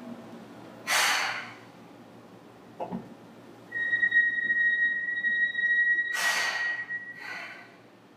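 Seibu 2000 series train standing at a station: a short hiss about a second in, then a steady high electronic beep held for about four seconds, with two more hisses near its end.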